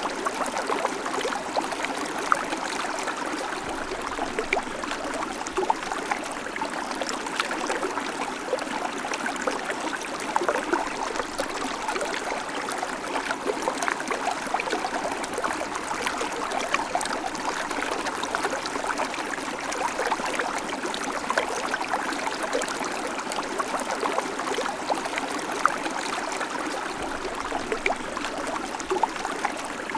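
Small creek babbling steadily over stones, a continuous rush of water with many small splashes and gurgles.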